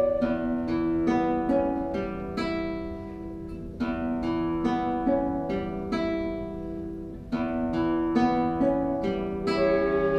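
Acoustic guitar music: plucked notes and chords, each ringing and fading, with fresh strong attacks about four and seven seconds in.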